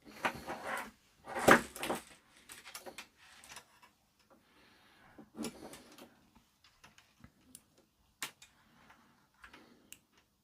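Rummaging and handling small tools and parts on a workbench: scraping and clattering, loudest about a second and a half in, followed by scattered sharp clicks and light knocks.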